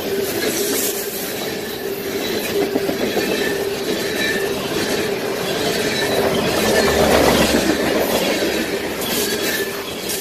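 Freight train's covered hopper cars rolling past close by at speed: a continuous rumble and clatter of steel wheels on the rails, with a steady squealing tone from the wheels running through it, loudest about seven seconds in.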